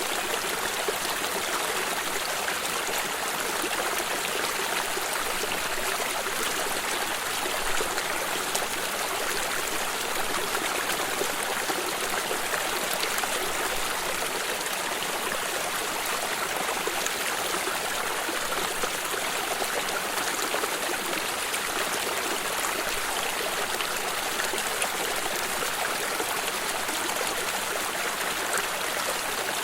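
Water in a stream flowing over rocks: a steady rushing and trickling that does not change.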